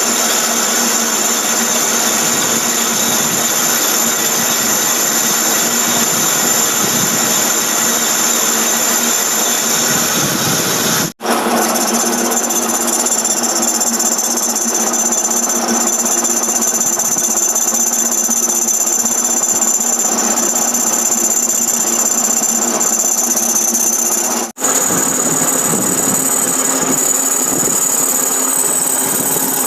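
Metal lathe running while a part of a 3-jaw chuck is turned, with a steady machining noise and a high squeal from the cut. The sound drops out for an instant twice.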